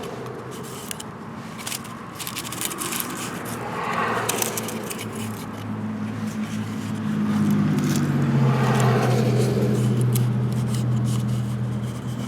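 A steady low motor hum that grows louder about seven seconds in, with scattered clicks and scrapes of handling parts.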